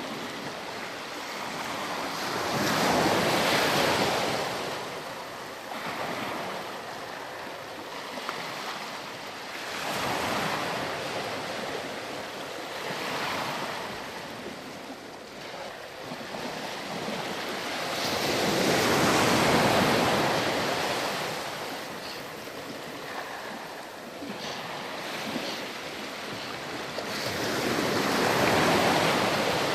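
Ocean surf washing onto a sandy beach, the noise of the waves swelling and ebbing every few seconds, with three larger breakers among smaller ones.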